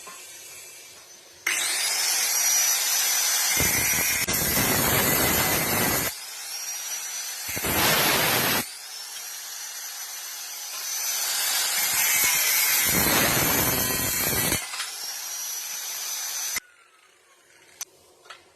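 A high-speed power tool, most likely an angle grinder working on the metal exhaust pipe, starts suddenly and runs with a high whine. It bites in three times with a heavier, rougher grinding sound, then cuts off suddenly near the end.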